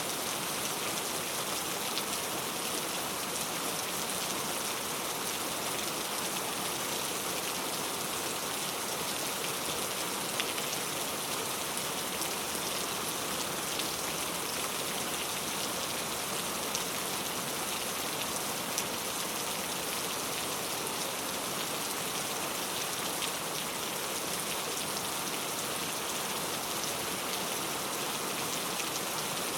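Heavy rain falling on mango tree leaves: a steady, even hiss with scattered patters of individual drops.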